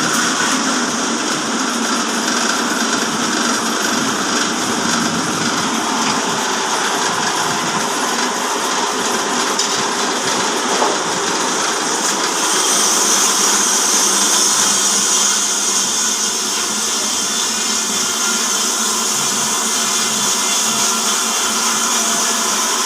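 Horizontal sawmill driven by a 5 HP electric motor, running steadily. About halfway through, a higher hiss grows stronger.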